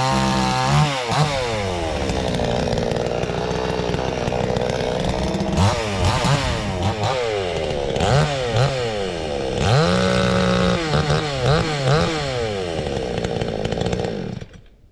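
Garwinner 62 cc two-stroke chainsaw running, its revs sweeping up and down again and again under the throttle, then stopping near the end. At full throttle it isn't quite opening all the way up, which the owner means to tweak.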